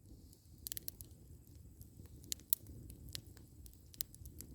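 Wood campfire crackling, with irregular sharp pops from logs burning down to coals, over a low steady rumble.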